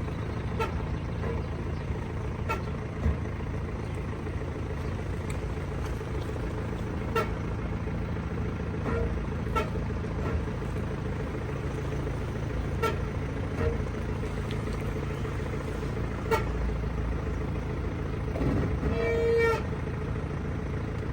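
Mercedes-Benz W212 rolling slowly with a steady low road and engine rumble. Short, high-pitched squeaks come every few seconds, and a longer, louder squeal comes near the end. The owner suspects the brakes, and the squeal occurs only on summer tyres when they are cold or wet.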